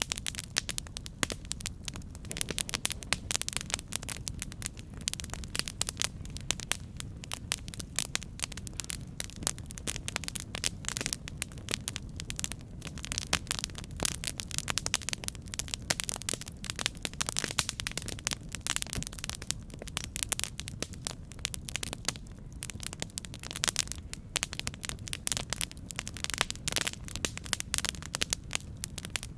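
Campfire burning, wood crackling and popping in a dense, continuous stream of sharp clicks over a steady low rumble.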